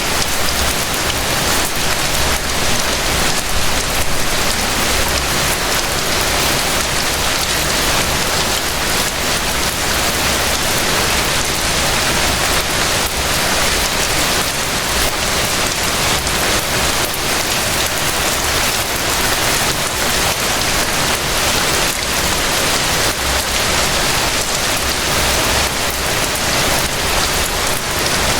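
Steady rain falling on surfaces, an even hiss with many small drop impacts.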